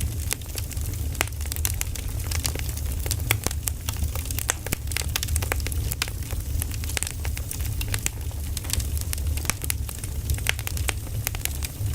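Burning firewood crackling and popping, with irregular sharp snaps several times a second over a steady low rumble.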